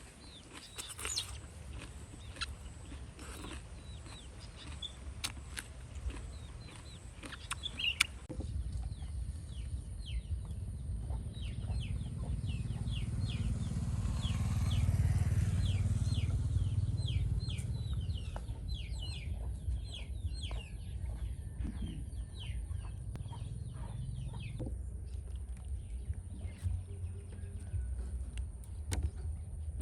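Many short bird calls repeating quickly over a low rumble that swells to its loudest around the middle and then eases off.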